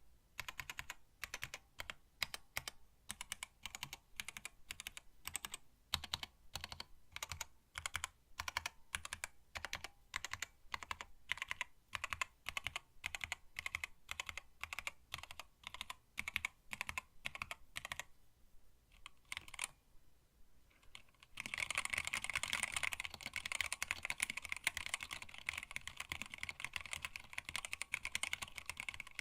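Typing on a hand-wired split mechanical keyboard with Tealios linear switches, blank PBT keycaps and an acrylic case: separate keystrokes for about eighteen seconds, a short pause broken by a couple of presses, then fast, continuous typing for the last third.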